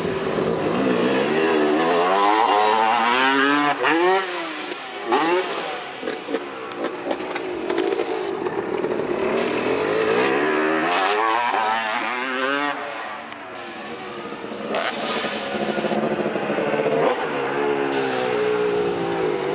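Freestyle motocross bikes revving hard, engine pitch climbing and falling several times as they accelerate and back off, with a few sharp knocks along the way.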